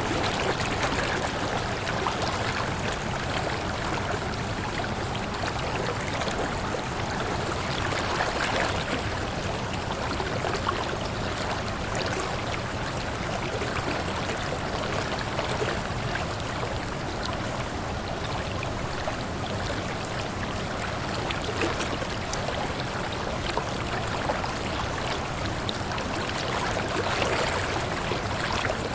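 Waterfall: water falling and rushing in a steady, even wash, swelling slightly now and then.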